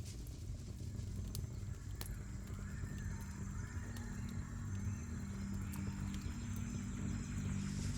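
Wood fire crackling, with scattered sharp pops about once a second over a low steady rumble.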